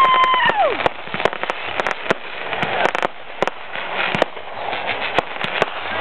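Fireworks going off: many sharp cracks and crackling bursts over crowd noise. A long held 'woooo' cheer from a spectator drops in pitch and ends a little under a second in.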